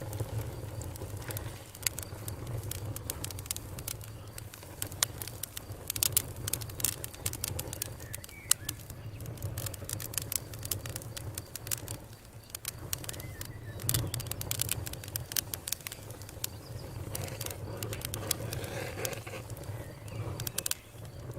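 Campfire burning with dense, irregular crackling: many sharp pops and snaps over a steady low rumble of the flames.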